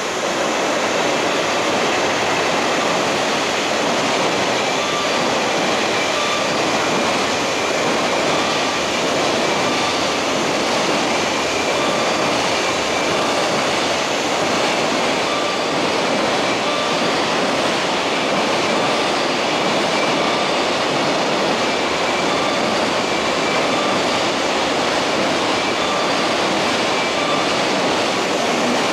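Steady rushing and rumbling of a train at the platform, with faint short tones recurring every second or two.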